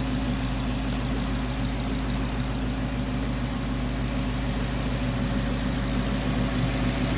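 Ford Mustang GT's 5.0-litre V8 idling steadily.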